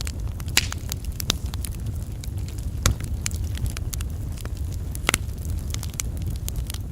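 Wood logs burning on an open campfire, a steady low rumble of flame with irregular sharp crackles and pops, a few louder pops among them.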